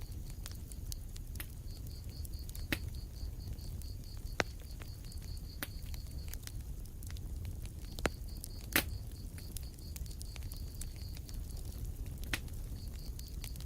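Wood fire crackling in a fireplace. About six sharp pops come a second or more apart over a steady spray of small ticks and a low rumble from the flames.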